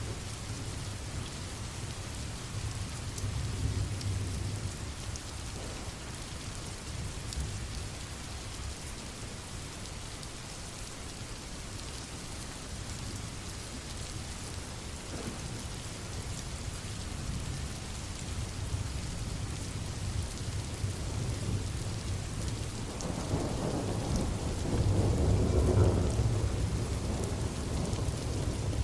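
Steady rain with low rumbling thunder underneath, and a louder roll of thunder about two-thirds of the way in that lasts a few seconds.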